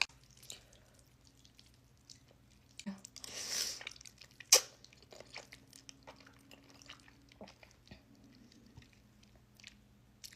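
Close-miked eating sounds: wet chewing and small mouth clicks, with a short rush of breathy noise about three seconds in and a sharp click just after it.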